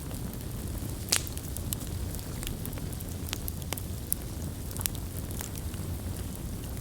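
Wood campfire burning with a steady low rumble and scattered sharp crackles and pops, the loudest pop about a second in.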